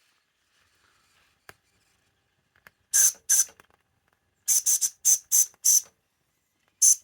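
Mamod toy steam locomotive giving short, sharp hissing puffs of steam in irregular groups: two, then a quicker run of six, then two more near the end.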